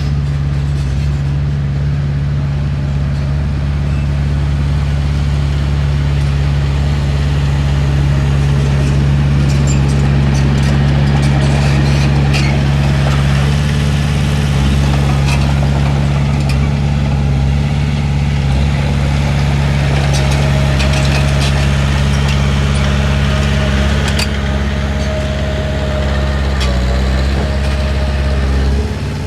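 Heavy diesel engine of earthmoving machinery running steadily, with scattered metallic clicks and clanks and a faint whine in the last third.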